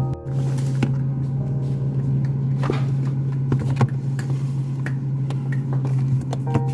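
A steady low hum with scattered light clicks and knocks over it.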